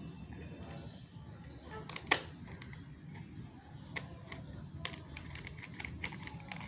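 Small scissors clicking and snipping at a plastic candy wrapper, trying to cut it open, with the packet crinkling: scattered sharp clicks, the loudest about two seconds in, over a low steady hum.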